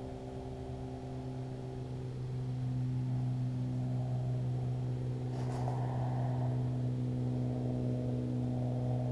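An engine or motor running steadily with a low hum that grows louder about two seconds in, with a brief rustle about halfway through.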